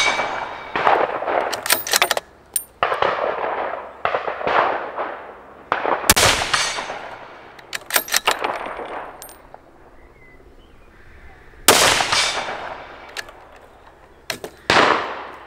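A string of gunshots fired at steel gongs downrange, spaced about one to three seconds apart, each echoing away. Some shots are followed by the faint high ring of a struck steel gong.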